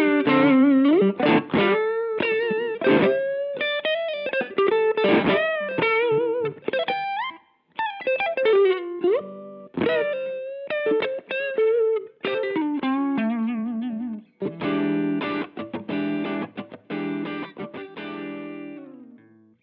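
Electric guitar played through a NuX Monterey Vibe, a digital univibe-style modulation pedal. Single-note lines with string bends carry a warbling wobble, and the playing ends on a strummed chord that fades out near the end.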